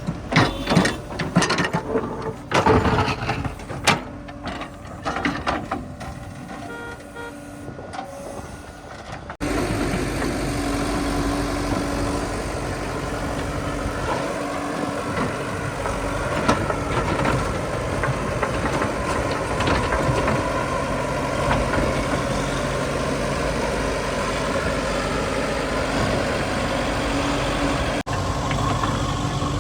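Diesel engine of a tractor or backhoe loader: irregular clanks and knocks for the first nine seconds or so, then, after an abrupt cut, the engine running steadily and loudly.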